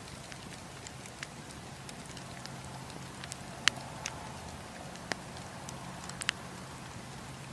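Wood campfire crackling: irregular sharp pops and snaps scattered over a steady low rush, the loudest pop about halfway through.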